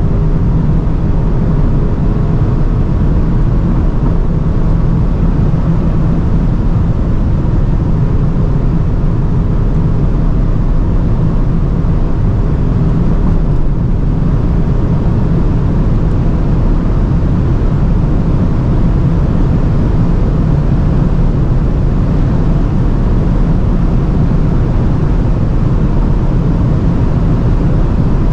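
Inside the cabin of a 2022 Audi RS6 Avant held at very high Autobahn speed: a steady, loud roar of wind and tyres over the drone of its twin-turbo V8, with no gear changes or revving.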